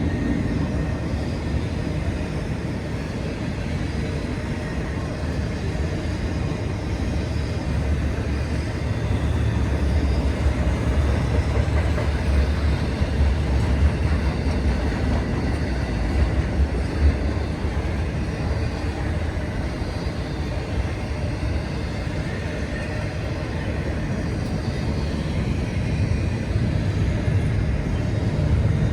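CSX intermodal freight train rolling past: the steady low rumble of its wheels on the rail, heaviest around the middle.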